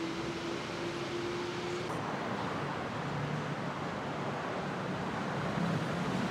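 Busy city road traffic: vehicle engines running and passing in a steady wash of noise. One steady engine tone fades out about two seconds in, as the traffic noise grows louder.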